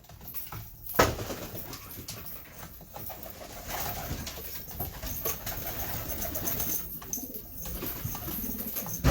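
Domestic pigeons cooing, with a sharp knock about a second in.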